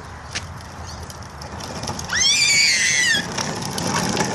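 A small child's high-pitched squeal about two seconds in, rising then falling and lasting about a second, over a steady rattling noise that grows louder.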